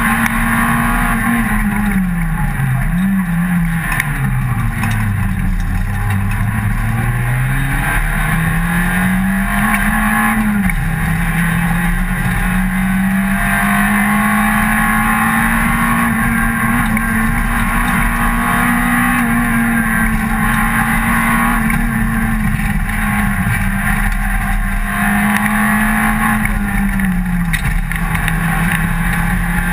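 Rally car engine heard from inside the cabin, running hard at high revs. A couple of seconds in the revs drop away, with a brief blip on the way down, then climb steadily again; there is a sharp drop in pitch at a gear change about eleven seconds in and another near the end.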